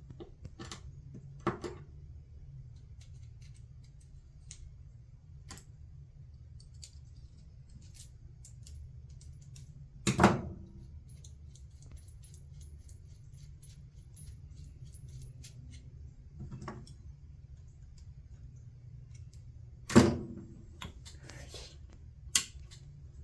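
Small tools and parts being handled on a workbench: scattered light clicks and taps, with two loud sharp knocks about ten seconds apart, over a steady low hum.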